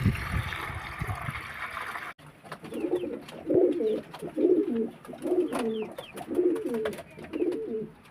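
About two seconds of rustling noise, then a pigeon cooing: a steady series of low coos, roughly one a second.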